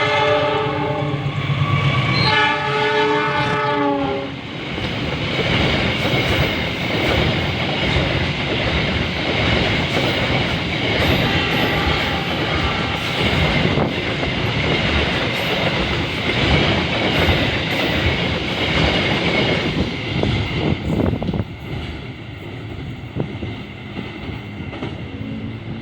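Train horn sounding warning blasts at a level crossing, its pitch dropping as the locomotive passes about four seconds in. Then the train's cars roll by with wheels clattering over the rail joints, fading near the end.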